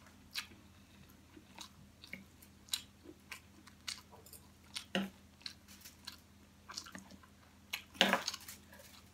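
Close-miked chewing of crispy fried pig head and pancit: wet mouth clicks and small crunches at an uneven pace, with a sharper crunch about five seconds in. Near the end a louder, longer noise as the fork works the plate.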